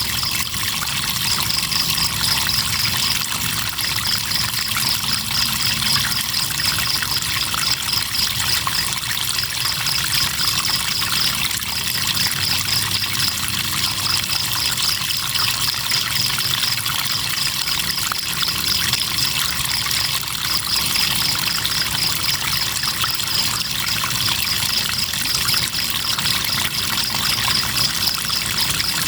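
River water flowing steadily, with crickets chirping in a rapid high pulsed trill that comes in runs of a second or two with brief breaks between them.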